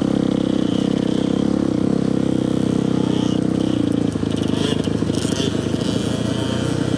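Dirt bike engine running steadily as the bike moves off at low speed, its note changing about four seconds in.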